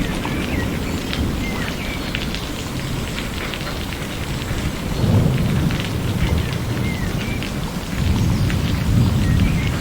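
Steady rain falling, with low rumbles of thunder swelling about halfway through and again near the end. Scattered short chirps sound over the rain.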